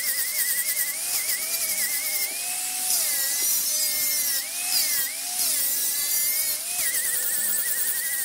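Wood lathe running with a high motor whine whose pitch repeatedly dips and swoops back up as the tool cuts, over a steady hiss.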